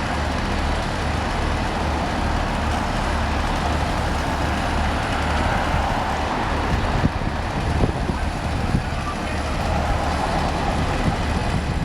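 Steady engine and road noise of a motor vehicle driving, with a low hum underneath and a few sharp knocks in the second half.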